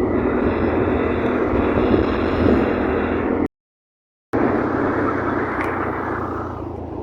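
Steady wind and road noise from riding a scooter. The sound cuts out completely for about a second midway, then resumes.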